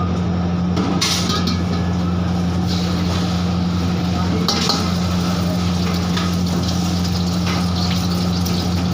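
Cooking in a pan: a metal utensil scraping and clinking against the pan over a sizzling fry, with a steady low hum throughout and sharper scrapes about a second in and again near the middle and near the end.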